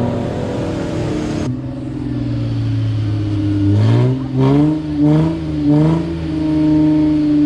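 A 4WD engine runs steadily, then is revved in about four quick surges around the middle and held at higher revs near the end, as the vehicle works for grip on a slippery muddy slope during a winch recovery.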